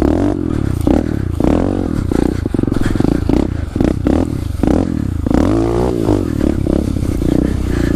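SSR 125 pit bike's single-cylinder four-stroke engine revving up and falling back several times as it is ridden, with short rattles and knocks throughout.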